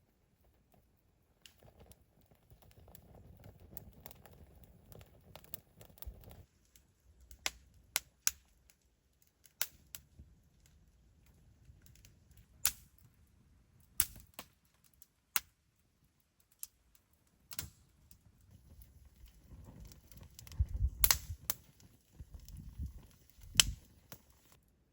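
Scattered sharp clicks and knocks, about a dozen at irregular intervals, with low rustling handling noise in two stretches, the loudest knocks near the end: objects being handled and set down.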